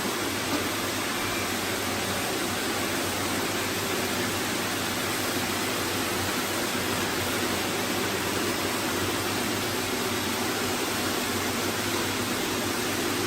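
Robot vacuum running: a steady hiss of its suction fan with a low hum, holding level throughout.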